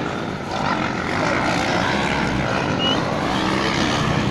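Motorcycle engines running steadily, their pitch wavering up and down.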